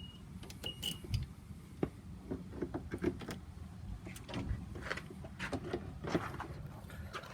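Irregular metal clicks and knocks of a vehicle battery terminal being worked loose and disconnected.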